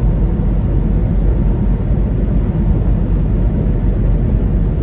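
Steady low drone of a semi-truck's engine and road noise heard inside the cab while driving along the highway.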